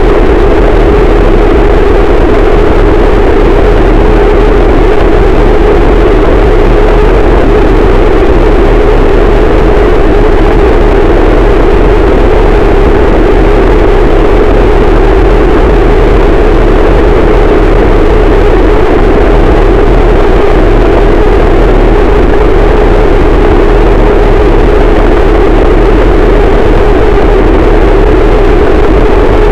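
Harsh noise wall: a dense, static wall of distorted noise at full loudness, unchanging throughout, heaviest in a low-mid rumble band.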